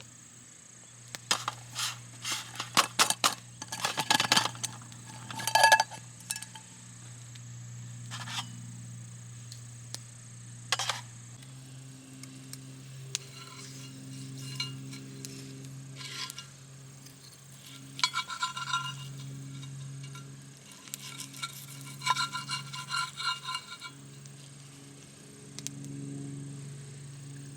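Camp cookware and utensils clinking and scraping in irregular clusters of sharp knocks. A soft, steady low tone runs underneath.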